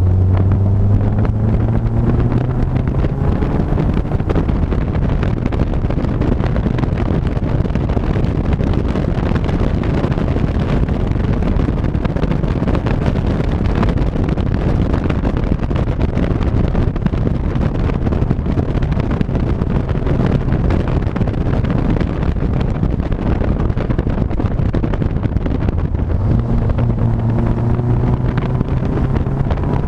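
A vehicle engine accelerating, its note rising over the first few seconds, then heavy wind rushing over the microphone at speed that buries the engine. A steady engine note comes back about four seconds before the end.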